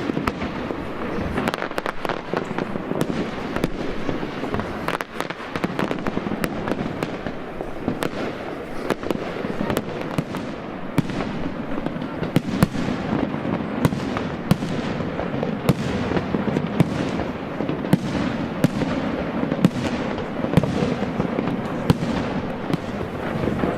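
Fireworks display: a dense, unbroken run of sharp bangs and crackling reports, several a second, over a continuous rumble of explosions.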